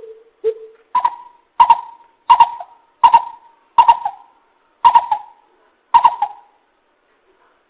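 A coucal calling: a series of about nine deep, hollow hoots. The first three are lower and the rest jump up about an octave, with the gaps between notes slowly widening, and each hoot trails off in a short echo.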